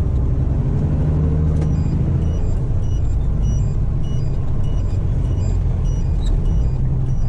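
Heavy truck's diesel engine running steadily at low revs, a deep even rumble, with faint high beeps repeating about twice a second.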